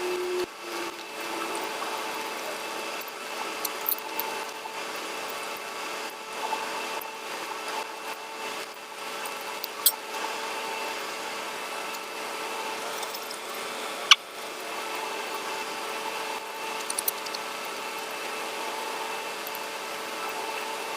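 Close-miked eating sounds: chewing of curry and rice, with a few sharp mouth clicks, over a steady background hum.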